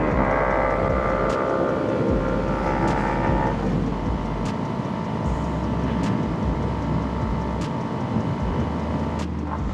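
Kawasaki Ninja 300's parallel-twin engine running under way on a ride; its pitch shifts about three and a half seconds in and then holds steady.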